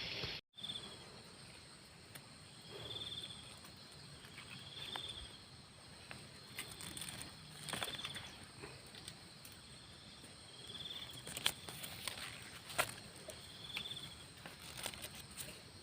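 An insect chirping in short pulsed calls about every two seconds, over faint outdoor ambience, with scattered sharp clicks and snaps; the two loudest snaps come near the end.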